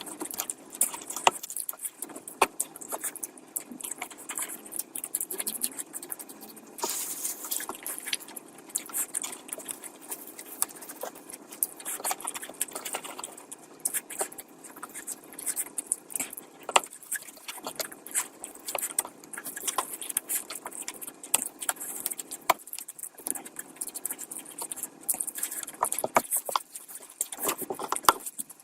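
Close-miked eating: chewing and mouth smacks, heard as a rapid, irregular run of small clicks.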